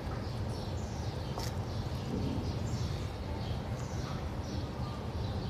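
Small birds chirping, short high falling chirps repeated over and over, against a steady low rumble.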